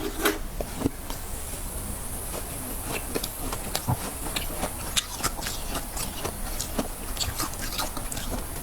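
Freezer frost being chewed close to the microphone: many crisp, irregular crunches and crackles over a faint hiss.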